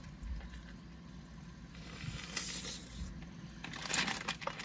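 Close-up chewing and wet mouth sounds of someone eating rotisserie chicken, with a run of louder wet clicks and smacks near the end.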